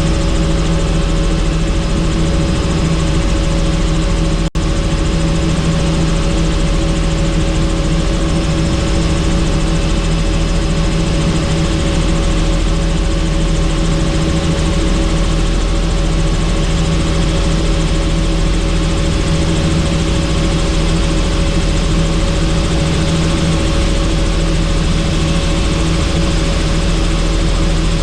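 Helicopter in flight, its rotor and turbine making a loud, steady drone with a constant hum and wind noise. The sound cuts out for an instant about four and a half seconds in.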